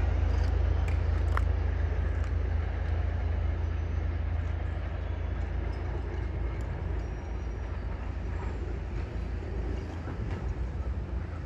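Caltrain commuter train rumbling away down the track, the low rumble slowly fading as it recedes.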